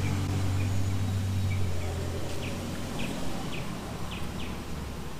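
A low, steady motor-vehicle engine hum that fades away over the first two seconds, then a run of short, high bird chirps, about two a second.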